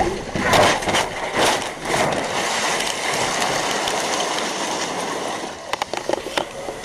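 Vehicle noise: several sharp knocks in the first two seconds, then a steady rushing noise with a quick cluster of clicks near the end.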